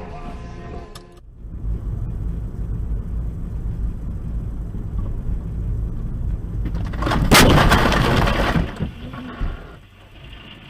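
Low road and engine rumble heard from inside a car, then, about seven seconds in, a sudden loud crash lasting about a second and a half, typical of a vehicle collision with crunching and breaking.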